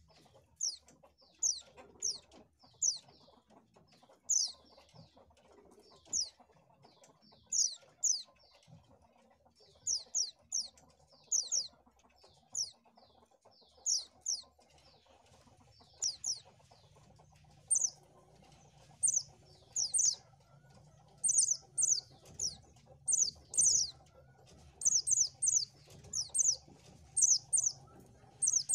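White-eye (pleci) calling: a run of short, high, downward-sweeping chirps, spaced out at first and coming faster and louder in quick clusters in the second half.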